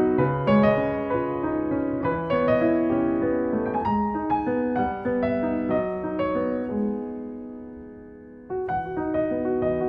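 Background piano music: gentle notes that die away about eight seconds in, then a new phrase begins.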